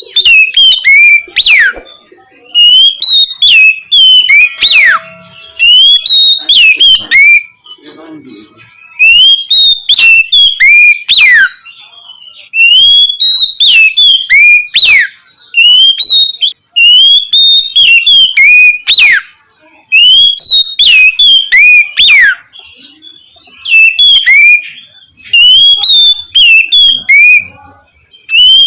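Oriental magpie-robin (kacer) singing loud, clear 'ngeplong' whistles. Short phrases of rising and falling whistled notes come again every few seconds, with brief pauses between them.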